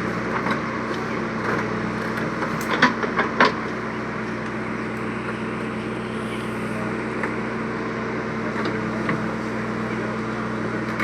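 Powertrac 50 tractor's diesel engine running steadily, with a few sharp knocks about three seconds in.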